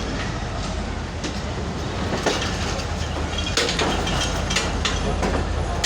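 Passenger train rolling slowly out of the station with a steady rumble, its wheels giving a few irregular clacks over rail joints and points.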